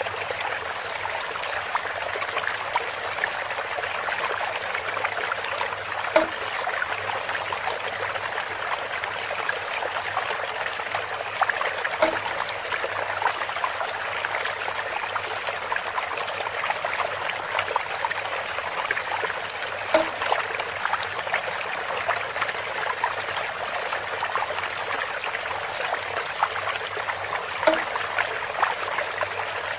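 Water trickling and pouring steadily through a bamboo spout. About every six to eight seconds there is a short, hollow, pitched knock, four times in all.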